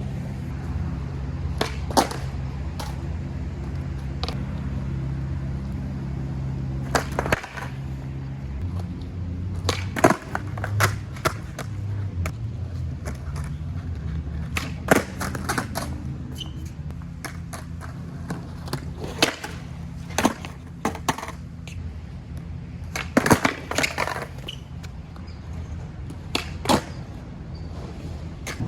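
Skateboard rolling on concrete with repeated sharp clacks from tricks: the board's tail popping and the deck and wheels slapping down on landings, over a steady low hum.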